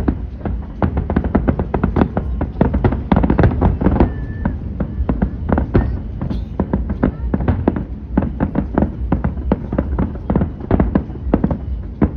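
Aerial fireworks bursting in rapid succession, many bangs a second, over a continuous low rumble.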